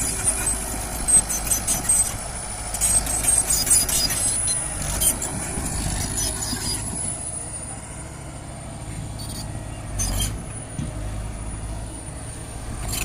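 Heavy diesel earthmoving machinery working: a steady low engine rumble under a thin high whine. Sharp clanks and rattles come through the first half, with another about ten seconds in.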